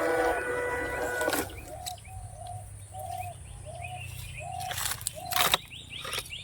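A bird calling a short repeated note about twice a second, with fainter chirping above it. For the first second and a half a louder noisy sound with a steady whine covers it, and two sharp knocks come near the end.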